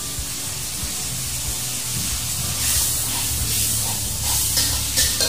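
Food frying in a wok over a gas burner: a steady sizzle that swells twice into louder hissing in the second half as it is stirred.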